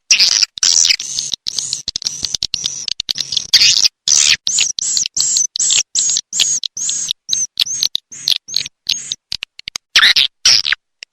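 Swiftlet calls played as a lure sound for swiftlet houses: rapid, high chirps in quick succession, many a second. Near the end they thin out into shorter, sparser chirps, then a brief louder flurry.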